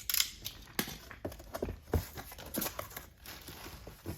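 Toy boxes and packaging being handled: irregular crinkling and rustling with a few knocks.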